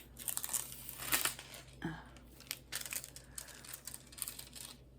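Crinkly plastic being handled, in irregular rustles and small clicks.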